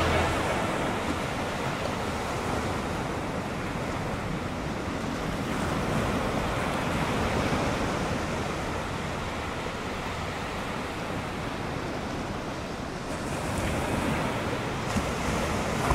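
Surf breaking and washing onto a beach: a steady rush that swells twice, with some wind.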